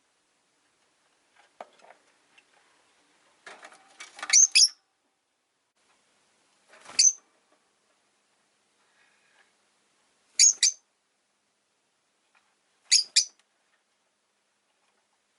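Rosy-faced lovebirds giving short, shrill chirps: a quick run of three about four seconds in, then a single chirp and two double chirps spaced two to three seconds apart.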